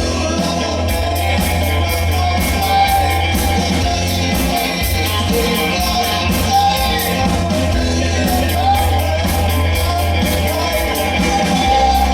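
A live rock band playing, with lead guitar, bass guitar and drum kit, and a singer over a steady drum beat and a heavy bass line.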